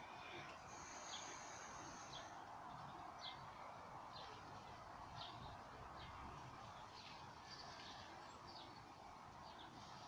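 Faint outdoor ambience: a small bird chirping short repeated calls about once a second over a low steady hiss.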